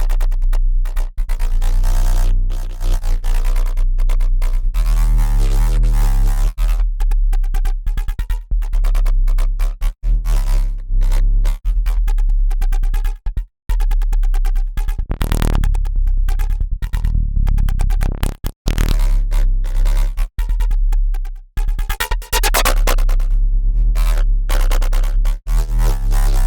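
Dirty FM synth bass riff patched from Bitwig Polygrid modules, looping at about 140 BPM. It has a heavy sub-bass under shifting overtones, cut by short gaps between notes.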